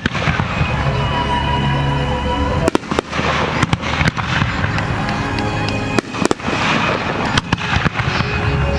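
Aerial fireworks shells bursting in quick succession, a dozen or so sharp bangs with crackle between them. Music plays over loudspeakers underneath.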